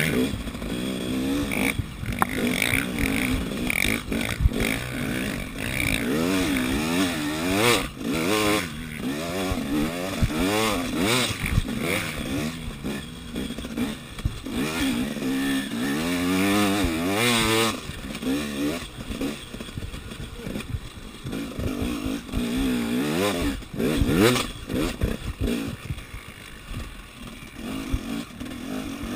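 KTM 300 EXC two-stroke single-cylinder enduro motorcycle being ridden hard on sand. The engine revs up and falls back over and over as the throttle is opened and closed, with a few brief drops where it is shut off.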